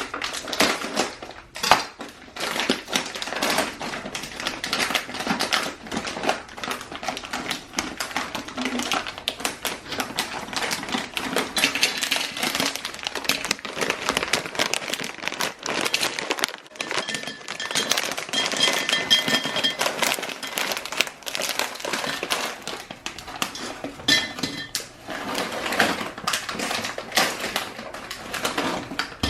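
Snack packages and containers being handled during a restock: a steady stream of irregular tapping, crinkling and clattering.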